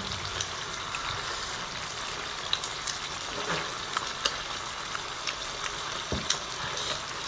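Close-miked eating of sea snail meat: scattered sharp, wet mouth clicks from biting and chewing over a steady hiss.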